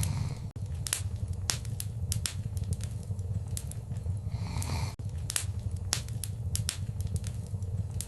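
Wood fire in a fireplace crackling, with many sharp irregular pops over a steady low rumble of the flames. A brief hiss rises about halfway through.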